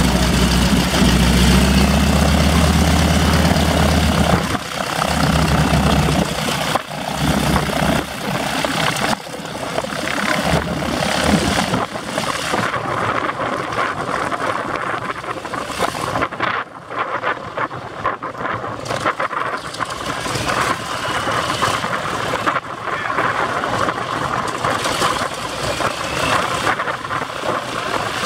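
Propeller aircraft engine running with a deep, steady hum that falls away after about five seconds, leaving a rushing, gusty noise of wind on the microphone.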